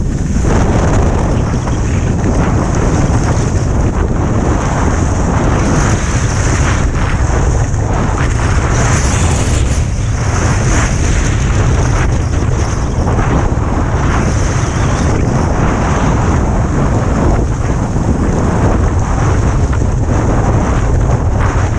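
Loud, steady wind buffeting a GoPro's microphone during a downhill ski run, with the skis scraping and hissing over the snow beneath it.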